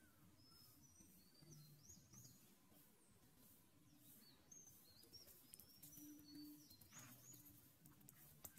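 Near silence: faint birds chirping in the background, short high chirps and whistles scattered throughout, with a faint rustle about seven seconds in.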